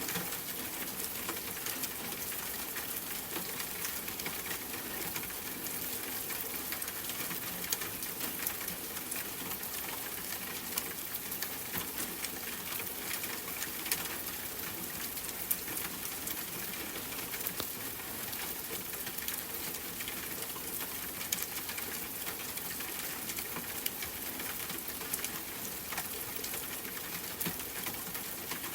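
Steady rain pattering, with many small drop ticks scattered through it.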